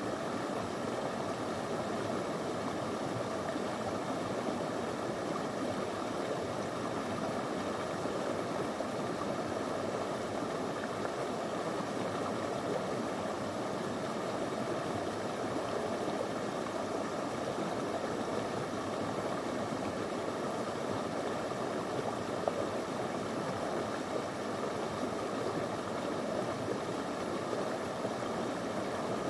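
Small stream of clear water flowing over stones, a steady rushing babble.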